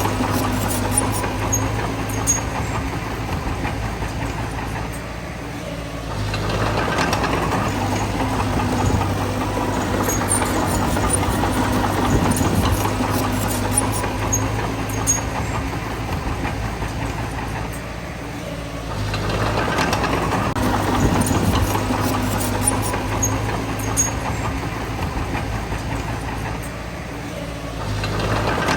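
Bulldozer's diesel engine running under load, swelling louder about every twelve seconds: around six seconds in, again around nineteen seconds, and near the end.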